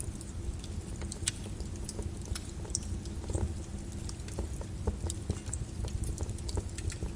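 Volcanic lava sounds: a continuous low rumble with irregular crackling and popping.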